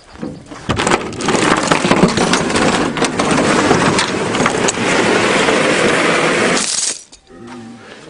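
Loud rattling, clanking and engine noise from a vehicle towing a stuck, wrecked car, starting about a second in and cutting off suddenly near the end.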